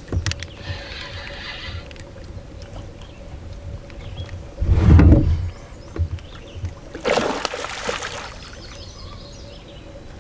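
Knocks and handling noises in a canoe, with one heavy thump about five seconds in and a short rushing hiss about seven seconds in.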